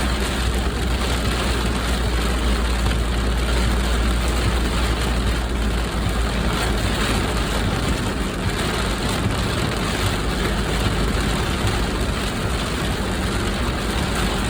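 Heavy rain falling steadily on a car, over the low rumble of the car's engine.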